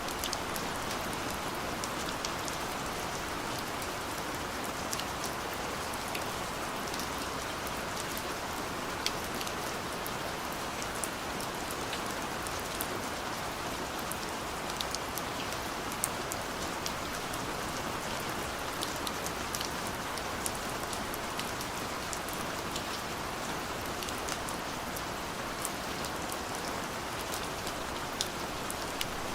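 Steady light rain, an even hiss with many scattered sharp drop ticks.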